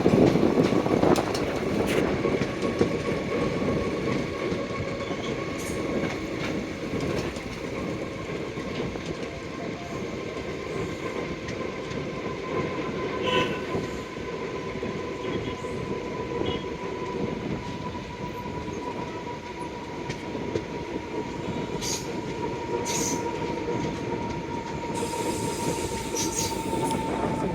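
Passenger train running on the rails: a steady rumble with scattered knocks from the track, over a high wheel squeal whose pitch sinks slowly.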